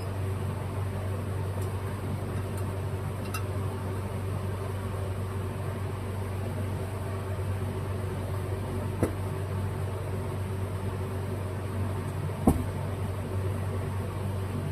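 Steady low mechanical hum of a running machine in the workshop, with a few light clicks as the carburetor's upper assembly and main body are handled and fitted together; the sharpest click comes near the end.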